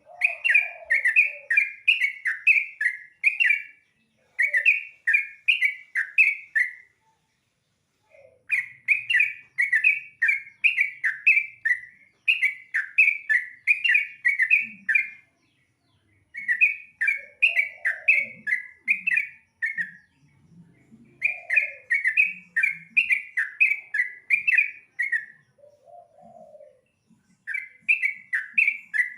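Yellow-vented bulbul (trucukan) singing hard: repeated phrases of quick chirping notes, each a few seconds long, with short pauses between them.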